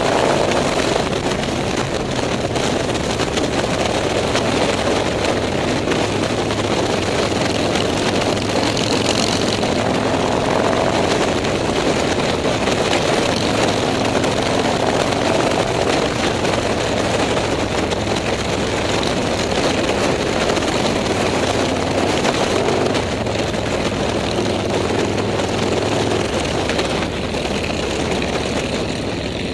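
Motorcycle engines running steadily in a dense, continuous mix, easing slightly near the end.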